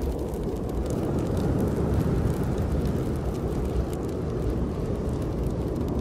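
Steady low rushing of snowstorm wind, with small scattered crackles from a wood fire burning in a fireplace.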